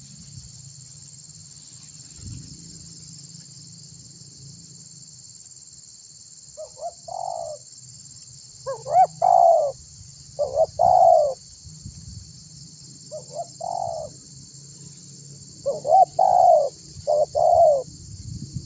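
Spotted dove (tekukur) cooing: from about six seconds in, five or six loud phrases of a few short, down-curving notes each. A steady high insect trill runs underneath throughout.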